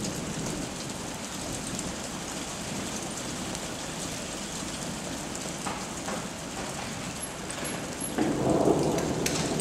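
Steady hiss of storm rain, with a louder low rumble lasting about a second some eight seconds in.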